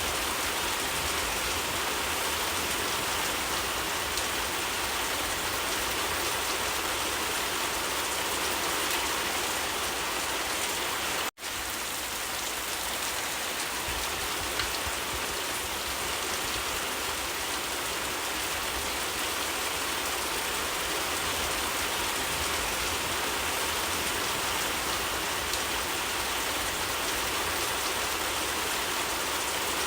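Steady heavy rain, a dense even hiss of falling drops. It cuts out for an instant about eleven seconds in, then carries on unchanged.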